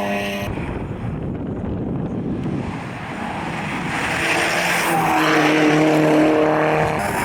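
Rally car engine running at high revs, which drops away abruptly about half a second in to a duller rumble. From about four seconds in a rally car's engine grows louder and holds high, steady revs.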